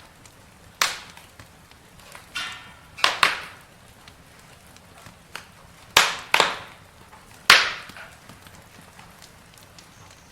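Campfire crackling: burning wood giving about six sharp pops and snaps at uneven intervals over a faint steady background, the loudest about six and seven and a half seconds in.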